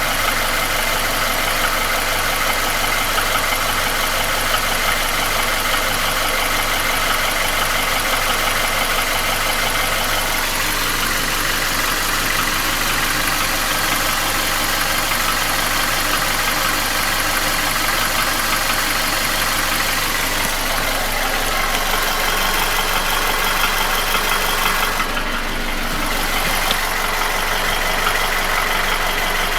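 Nissan QG16DE 1.6-litre inline-four petrol engine idling steadily with a knock. The owner places the knock between cylinders 1 and 2 at the front of the block; the engine has no hydraulic lifters.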